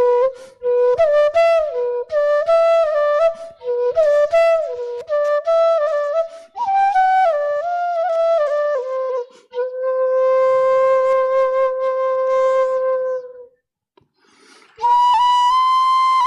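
Background music: a solo flute melody in quick phrases, then a long held note. After a pause of about a second near the end, a higher held note begins.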